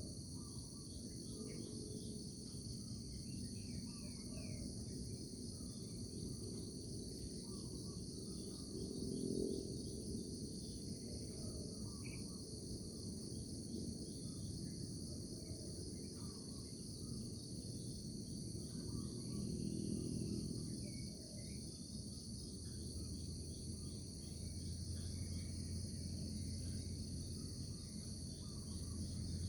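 A steady high-pitched insect chorus trilling continuously, with scattered short bird chirps over a low, even rumble.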